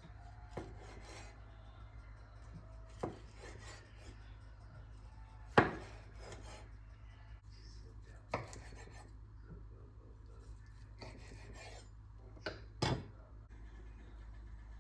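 Kitchen food-prep handling sounds: soft scraping and rubbing, broken by several sharp knocks of utensils or dishes, the loudest about halfway through and two close together near the end, over a low steady hum.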